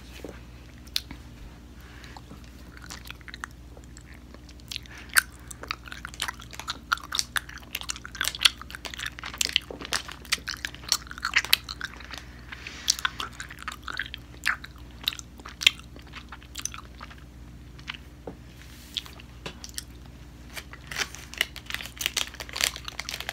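Close-miked chewing of food with the mouth closed: many small, irregular clicks and crackles from the mouth, ASMR-style.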